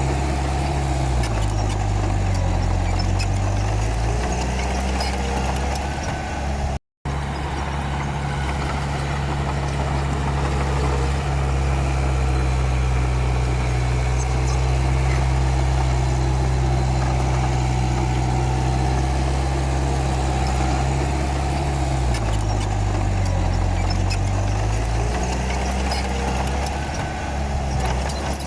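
Komatsu D31P bulldozer's diesel engine running steadily, its pitch sagging and then recovering twice as it lugs under the load of pushing dirt.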